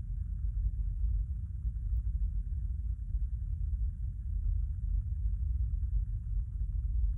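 Steady low rumble inside a stationary car's cabin: the car's engine idling.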